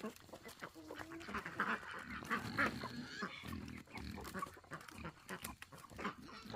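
Domestic poultry squawking and calling in short, irregular cries, with scuffling and light knocks as the birds are handled.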